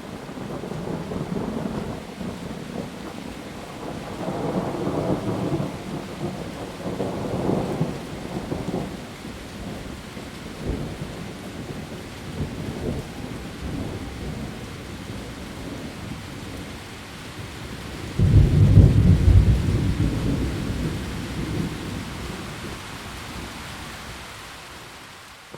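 Heavy rain falling steadily, with rolling thunder rumbling through the first half and a sudden loud clap of thunder about eighteen seconds in that rumbles away over the following seconds.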